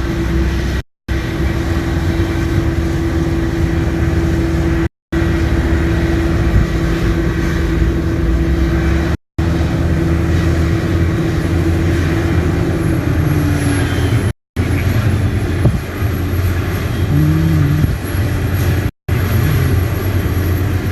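Diesel farm machinery engine running steadily with a steady hum, broken five times by brief moments of silence.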